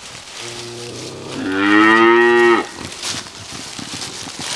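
A farm animal's long, low, moo-like call, lasting about two seconds. It begins quietly, swells loud about halfway through, then cuts off.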